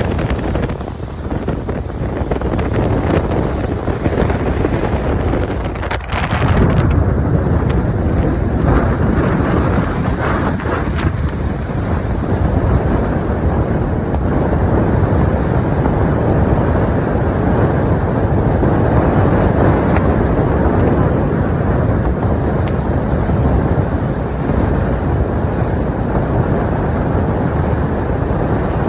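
Strong wind buffeting the microphone over the steady rumble of a vehicle on the road, with a brief lull about six seconds in.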